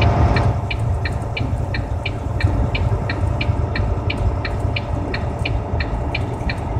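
Car driving on an icy road, heard from inside the cabin: a steady low road and engine rumble with an even ticking about three times a second.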